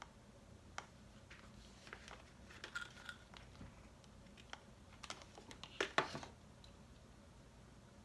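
Scattered soft clicks, taps and rustles of hands working with googly eyes and a hot glue gun at a table, with the loudest short burst of clicks about six seconds in.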